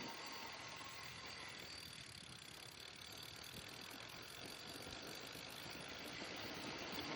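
Steady rushing noise from a moving bicycle: wind on the microphone and rolling road noise. It eases a little in the middle and swells again near the end.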